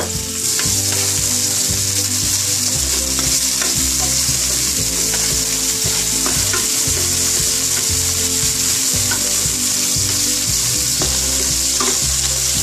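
Chopped ginger and garlic sizzling steadily in hot oil in a frying pan while being stirred with a spatula, the tempering stage of a curry. The sizzle gets louder about half a second in, and a few light scrapes of the spatula sound against the pan.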